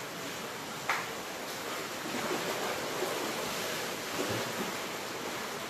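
Storm-driven surf washing onto the shore with wind noise, surging and easing in a steady rushing haze. A brief sharp knock about a second in.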